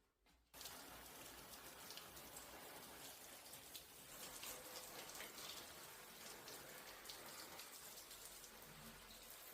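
A steady patter of falling water drops, like rain on a surface, cutting in suddenly about half a second in.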